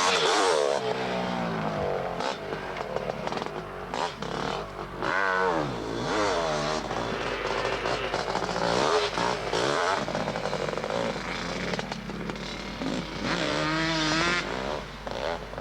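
Motocross motorcycle engines revving, their pitch climbing and falling again and again as the bikes accelerate and back off, with more than one engine heard at once.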